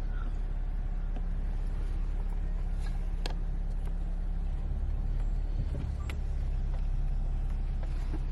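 Car running, heard from inside the cabin: a steady low engine and road rumble, with a couple of faint clicks.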